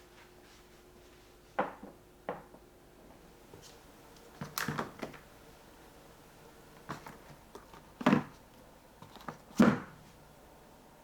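Scattered knocks and taps of kitchen things being handled and set down on a counter while a block of butter is portioned for the freezer, the loudest two near the end.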